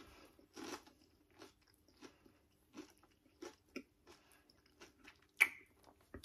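Close-up chewing of a crispy coated hash brown fry: a run of crunching chews, roughly one every half second or so, with one sharp, much louder click a little after five seconds in.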